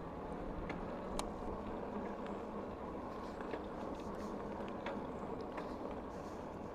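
Steady rolling rumble of a bicycle being ridden along a trail, with a few faint scattered ticks.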